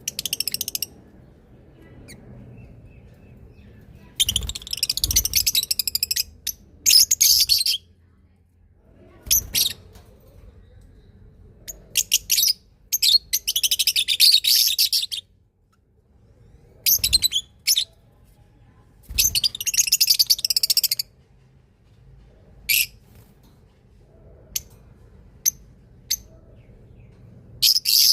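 Small birds chirping in quick, high-pitched bouts of a second or two, repeated every few seconds with short pauses between.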